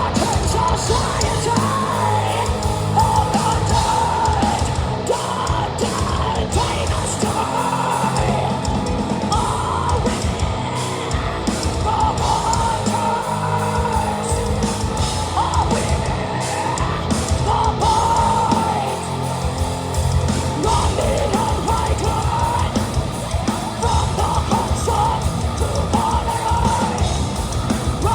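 Heavy metal band playing live: distorted guitars, bass and drums under a female vocalist's harsh screamed vocals mixed with singing.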